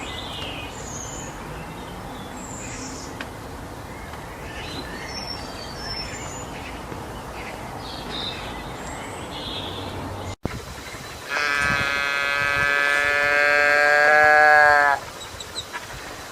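Steady outdoor background noise with scattered faint high chirps, then, after a cut, one long steady animal call lasting nearly four seconds, growing a little louder before it stops abruptly.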